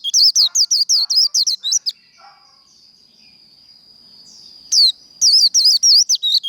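White-eye singing its fast 'líu' song: a rapid string of high, sliding whistled notes. The song breaks off for about three seconds in the middle and starts again near the end.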